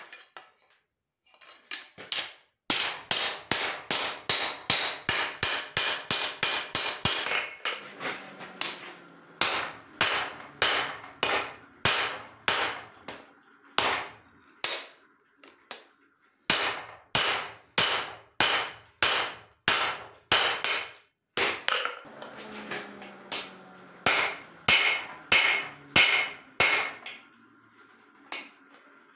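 Hand hammer striking leaf-spring steel on an anvil in runs of sharp blows, about two to three a second, with short pauses between runs and a faint ringing between strikes.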